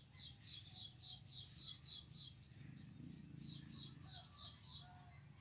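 Faint bird calling: a rapid series of short, high chirps, about four a second, with a brief pause past the middle before it carries on.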